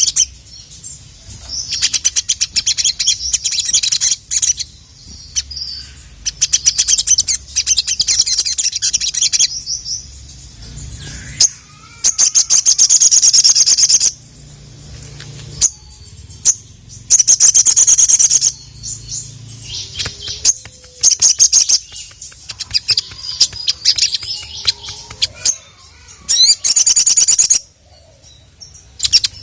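Sogok ontong (brown-throated sunbird) singing in full song: repeated bouts of fast, high-pitched chattering trills, each a second or two long, with short pauses between them.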